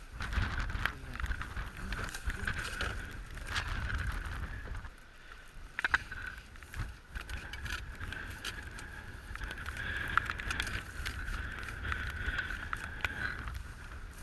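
Wind rumbling on the microphone, with scattered clicks and knocks as goose decoys and their stakes are handled and packed. A steady high-pitched hum runs through most of it.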